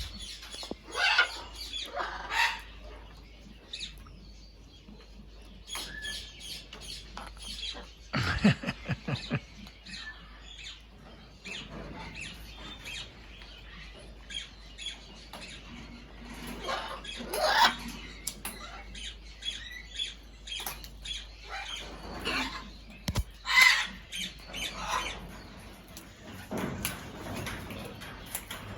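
Aviary birds flapping their wings, with scattered short squawks and chirps; the loudest bursts come about 8, 17 and 23 seconds in.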